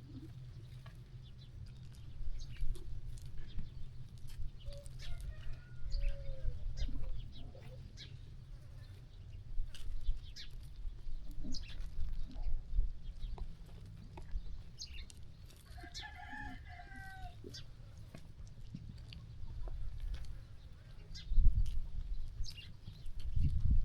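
Sheep-farm ambience: scattered clicks and rustles of sheep grazing and moving, short animal calls here and there (the clearest about two-thirds of the way in), over a steady low rumble that swells in gusts near the end.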